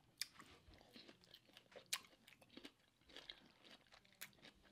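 Faint close-up chewing: soft wet mouth clicks and smacks, with a few sharper clicks scattered through.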